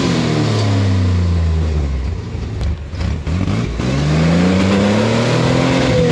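Off-road rig's engine revving hard on a steep rock climb: the revs fall away over the first two seconds, nearly drop out around the third second, then climb again and hold high.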